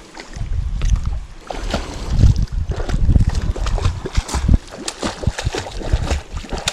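Shallow water splashing and sloshing close by, in uneven strokes with low knocks and bumps mixed in.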